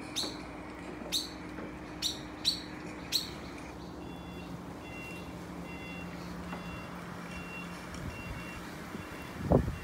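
A bird gives five sharp, high chirps, falling in pitch, over the first three seconds or so. A faint, evenly pulsed high tone and a low steady hum follow, and a louder burst of noise comes just before the end.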